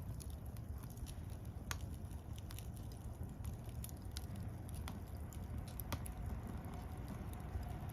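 Wood fire crackling: scattered sharp pops and ticks, two louder ones about two and six seconds in, over a steady low rumble.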